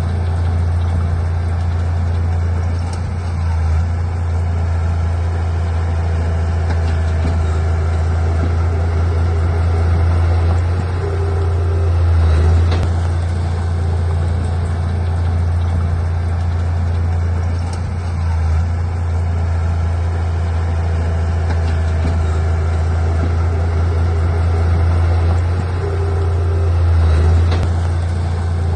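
Heavy diesel engine of earthmoving machinery running steadily with a deep, low drone, swelling slightly about twelve and again about twenty-seven seconds in.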